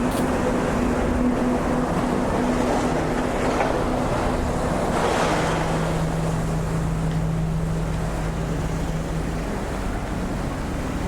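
Steady rushing of flowing river water, with a low engine hum from road traffic underneath and a slight swell about five seconds in.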